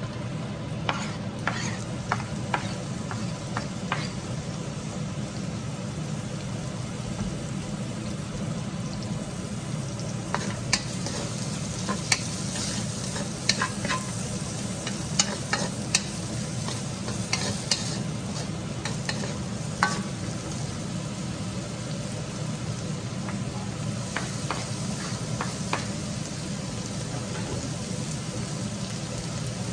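Sliced onions sizzling in a metal wok, stirred with a wooden spatula that scrapes and knocks against the pan in scattered sharp clicks. A steady low hum runs underneath.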